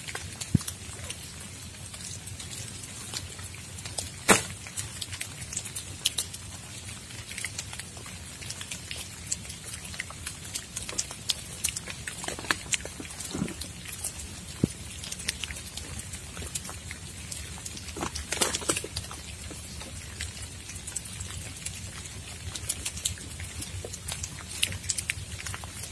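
Rain falling: raindrops landing in irregular sharp taps over a low steady background, with one louder tap about four seconds in and a brief cluster of heavier drops later on.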